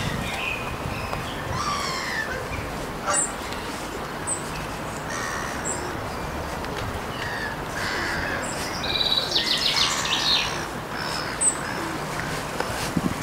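Wild birds calling and singing: scattered short chirps and whistles, with a fast trill about nine seconds in, over a steady low rushing background.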